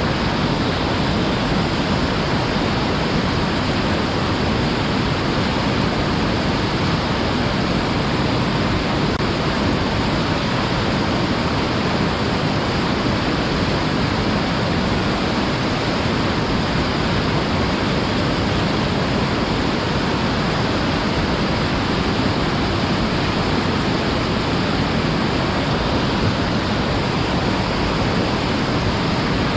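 Waterfall roaring: an even, unbroken rush of falling water.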